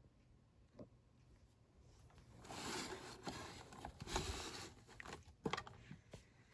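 Rustling and scraping noise with several clicks and knocks, like handling, lasting about two seconds past the middle and followed by a few sharp clicks, over a faint steady low hum.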